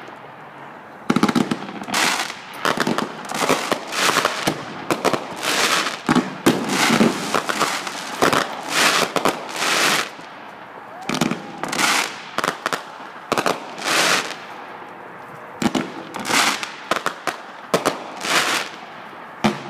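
Fireworks display going off close by: an irregular run of bangs, pops and crackles, with a couple of short lulls.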